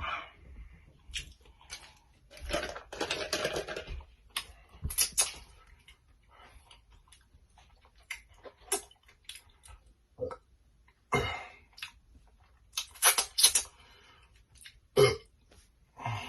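Close-up eating of Takis-crusted fried chicken: irregular crunches and chewing with scattered clicks. There are clusters of louder crunches about three seconds in, around five seconds and again around thirteen seconds.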